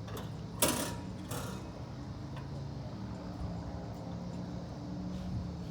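A machine running steadily with a low hum, with a loud, sharp knock about half a second in and a second, weaker knock about a second later.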